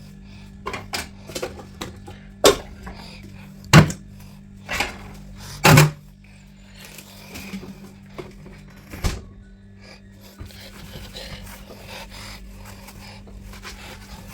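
Knocks and clatter of containers and fridge parts being handled and set down, four loud ones in the first six seconds and another near the middle, over a steady low hum.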